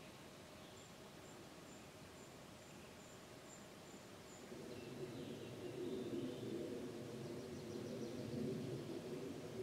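Faint outdoor birdsong: a small bird repeats a very high, thin note about three times a second, some twelve times over the first half, with a few more high calls later. About halfway in, a low steady hum with several even tones sets in and grows louder.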